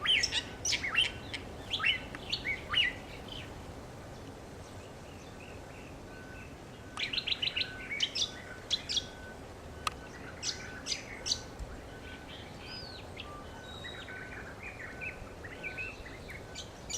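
Songbirds chirping in bursts of quick sweeping notes, with a rapid run of chirps about seven seconds in, followed by a few sharp downslurred notes.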